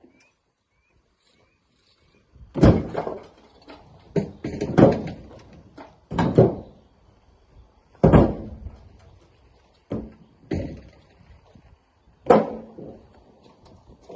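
Heavy thuds as rocks land one after another in the steel bed of a dump truck, about eight impacts spaced a second or two apart, each with a short ringing tail.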